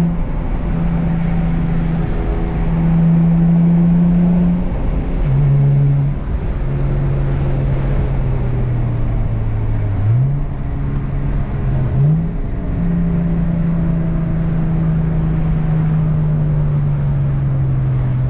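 Infiniti G35 coupe's 3.5-litre V6 through a Z1 M Spec dual exhaust while being driven: a steady exhaust drone that slowly falls in pitch, with brief lifts off the throttle. Twice in quick succession about halfway through, the revs rise sharply.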